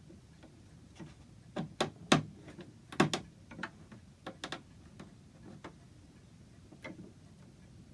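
A series of irregularly spaced sharp wooden taps and knocks from pieces of an oak clock case being handled and fitted, the loudest about two and three seconds in.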